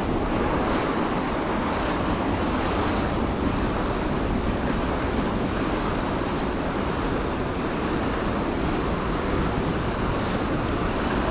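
Steady rushing and splashing of fountain water, with wind rumbling on the microphone.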